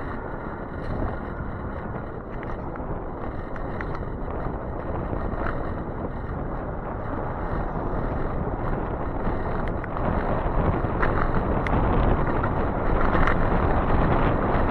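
Steady rushing of wind on the microphone with road noise while riding an e-bike, growing louder from about ten seconds in.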